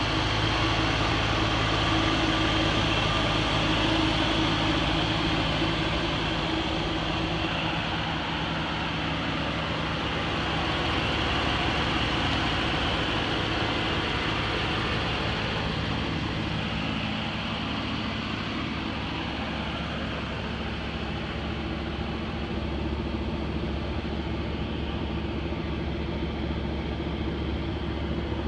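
1979 Chevrolet Malibu Classic's 305 V8 engine idling steadily.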